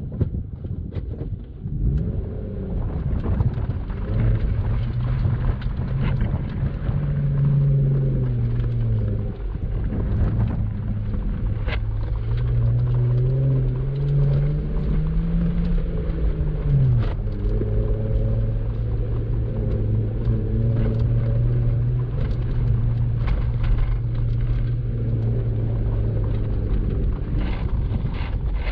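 Jeep Wrangler Unlimited Rubicon engine running at low revs while crawling a trail, its pitch rising and falling as the throttle comes on and off. There are a few sharp clicks and knocks over the engine.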